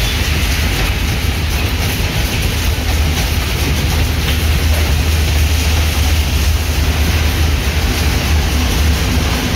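Passenger train coaches rolling past with a steady low rumble of wheels on the rails, mixed with the hiss of car tyres on a rain-soaked road.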